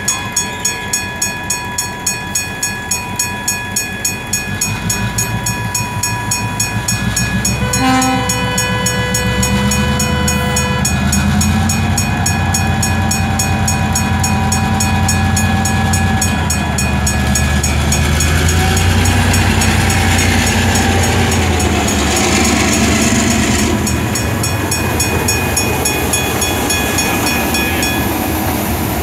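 Diesel-hauled freight train running past: regular wheel clicks over the rail joints at first, a horn blast of about three seconds some eight seconds in, and a heavy low locomotive rumble that swells and then eases.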